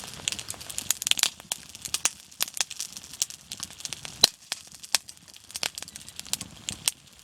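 Wood campfire crackling, with irregular sharp pops; the loudest pop comes about four seconds in.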